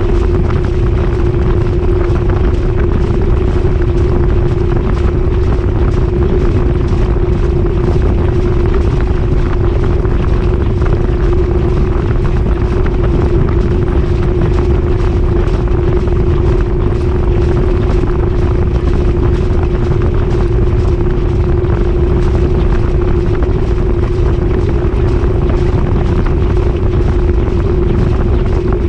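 GE top-load washing machine in a steady high-speed spin, heard from inside the drum: a constant deep rumble with a steady hum, no change in speed.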